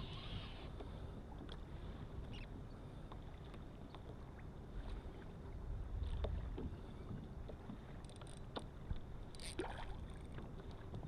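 Light water splashing with small knocks and clicks around a fishing kayak as a hooked redfish is brought alongside, over a low steady rumble.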